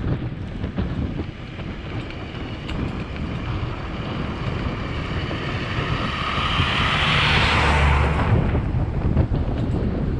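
Wind buffeting the microphone while cycling, with a motor vehicle approaching and passing close: its engine and tyre noise swell over a few seconds, peak about seven to eight seconds in, then fall away quickly.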